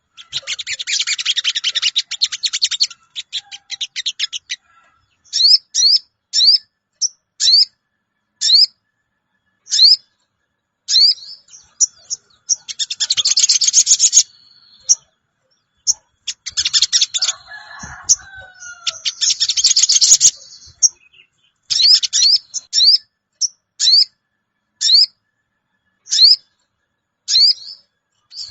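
Recorded sogon bird call used as a trapping lure: sharp "cuwit" chirps repeated about once a second, broken by several fast chattering trills. A lower, sliding call joins in about 17 seconds in.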